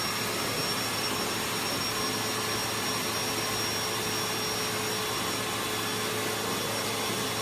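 Power drill running a hole saw, cutting steadily into the wall for the mini-split's line-set hole. The motor holds a steady whine over the noise of the cut.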